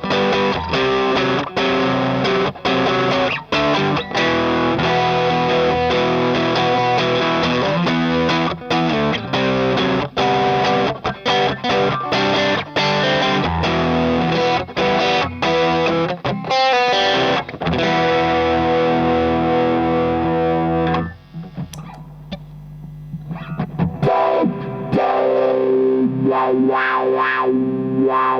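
Electric guitar played through a Madbean Drunken Dragon overdrive pedal, a Lovepedal Eternity clone, strummed in driven, rhythmic chords. About three quarters of the way through it drops quieter for a few seconds, then picks up again with ringing chords.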